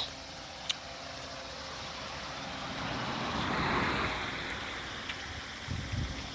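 A vehicle passing, its noise swelling to a peak about four seconds in and then fading.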